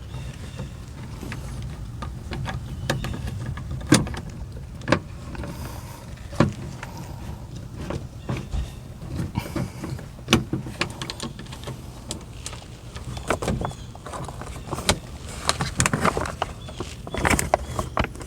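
Irregular metallic clicks and knocks of 10mm bolts and tools being handled while the bolts are started by hand into threaded inserts in a car door, more frequent near the end, over a faint steady low hum.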